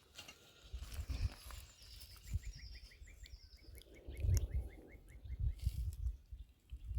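A bird calling a fast run of short rising notes, about five a second, for around three seconds. Under it come irregular low rumbles and thumps, which are the loudest sound.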